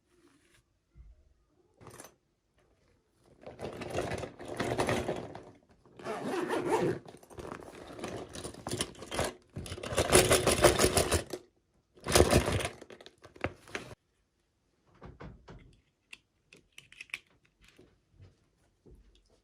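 Toy packaging being handled and opened by hand: irregular bursts of crackly handling noise, loudest about halfway through, then a few faint taps near the end.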